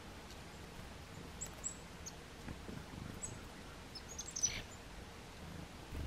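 Small wild birds giving short, high chirps: a few scattered single notes, then a quick cluster of them about four and a half seconds in.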